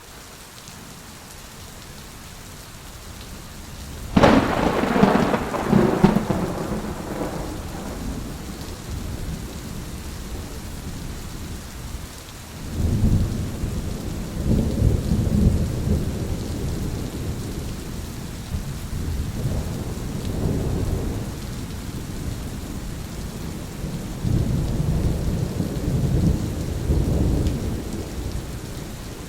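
Thunderstorm: steady rain falling, with a sudden sharp crack of thunder about four seconds in, then long, low rolling rumbles of thunder through the rest.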